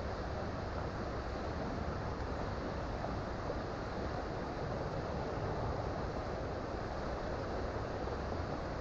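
A creek flowing: a steady, unbroken rush of running water.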